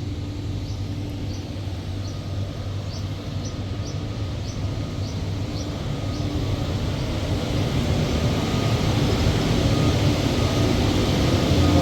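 A steady low mechanical rumble, like a running engine, that grows gradually louder through the second half. A series of faint high clicks or chirps sounds over the first half.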